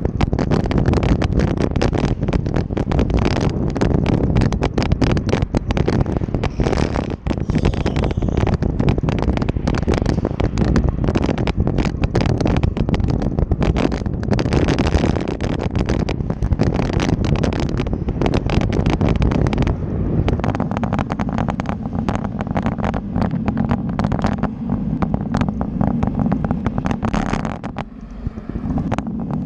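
Wind rushing and buffeting over the microphone of a moving bike, with a constant dense rattle; it eases slightly near the end.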